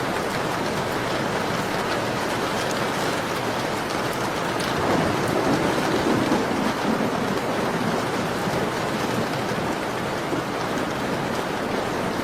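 Steady rain falling. A low rumble swells for a couple of seconds about five seconds in.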